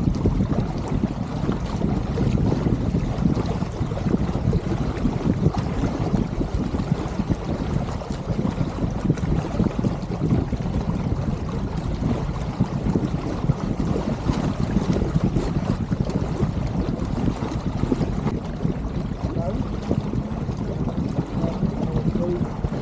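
Steady wind noise on the microphone over water washing along the hull of an Elliott 7.4 sailboat under way, a low, even rush.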